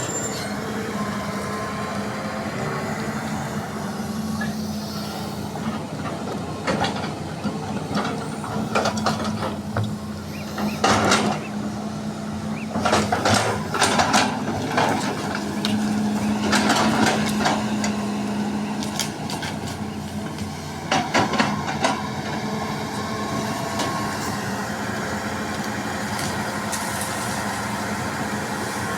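Hydraulic excavator's diesel engine running steadily, with several bursts of scraping and clattering as the bucket digs and moves limestone and earth, the loudest near the middle.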